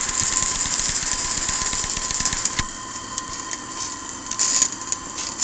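Accucraft Shay live-steam garden-railway locomotive chuffing with a rapid exhaust beat. About two and a half seconds in it drops noticeably quieter, with a brief louder hiss near the end.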